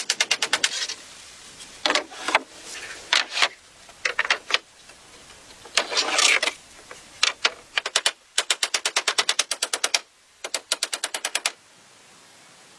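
Rapid runs of sharp knocks, about ten a second, each run lasting up to a second or two with short pauses between, as of quick repeated tool strikes on building material.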